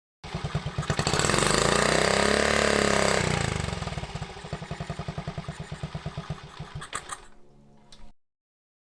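An engine revs up and holds for about two seconds, then winds down, its firing pulses slowing and fading before the sound cuts off abruptly.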